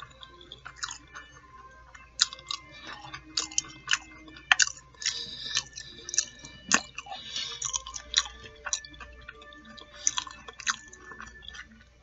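A person chewing fried fish nuggets and fries close to the microphone, with irregular wet mouth clicks and crunches coming several a second.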